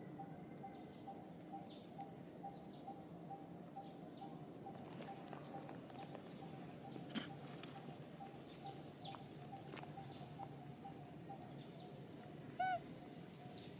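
Outdoor ambience with small birds chirping, short falling chirps repeating every second or so over a steady pulsing at about four a second. A single click comes about halfway through, and a short, high-pitched call rings out near the end, the loudest sound.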